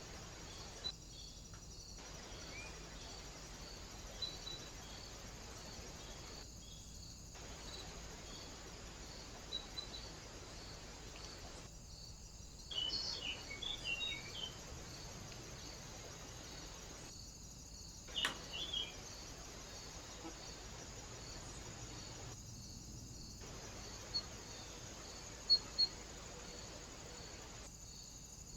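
Steady microphone hiss of a trail camera with faint, evenly repeated insect chirping, and two short bursts of small-bird chirps around the middle. A few sharp clicks, the loudest near the end, and the sound drops out briefly every five seconds or so.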